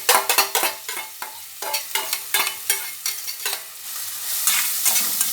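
Onion and garlic frying in hot oil in a pot, sizzling, while a utensil stirs them with repeated clicks against the pot. The sizzle grows louder and fuller about four seconds in.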